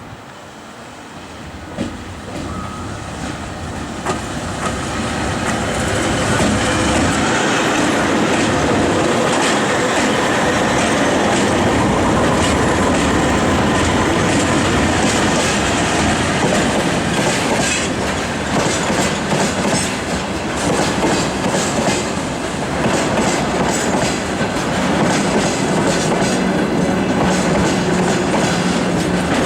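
Freight train hauled by VL80S electric locomotives approaching and running past, growing louder over the first few seconds. It then runs steadily, with the clickety-clack of wheels over rail joints as the wagons roll by.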